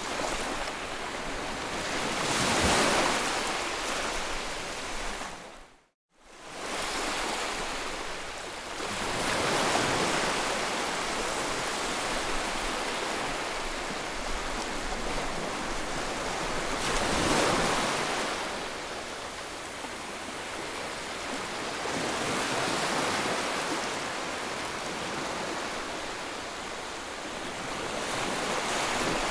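Ocean surf: waves breaking and washing in, swelling and ebbing about every seven seconds. About six seconds in, the sound fades out to silence for a moment and then comes back.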